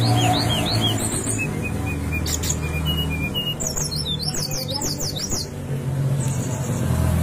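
Brown-chested jungle flycatcher singing: a run of short falling whistles, then a few lower short notes, then a fast series of sliding notes about four seconds in, over a low steady hum.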